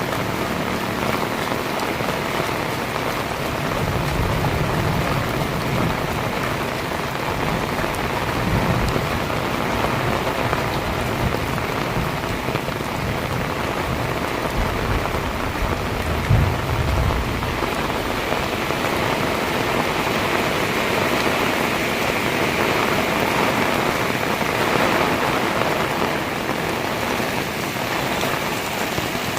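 Heavy rain pouring steadily, with a few low rumbles rising out of it about four, eight and sixteen seconds in.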